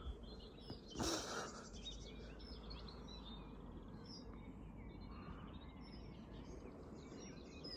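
Birds chirping and singing over a low, steady background rumble, with a short louder burst of noise about a second in.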